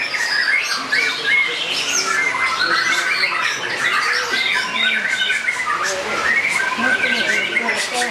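Many caged songbirds singing at once, a dense overlapping mix of chirps, trills and squawks, with people's voices faint underneath.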